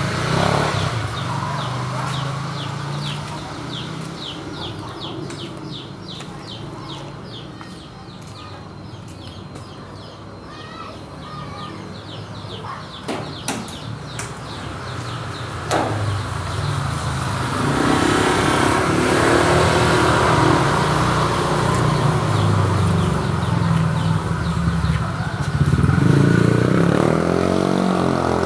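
Motor vehicle engines running past, with one engine rising in pitch as it speeds up near the end.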